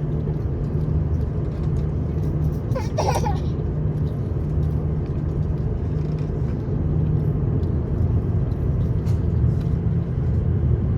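Steady low rumble inside the cabin of an Airbus A340-300 airliner, from its engines and airframe. A baby gives a short cry about three seconds in.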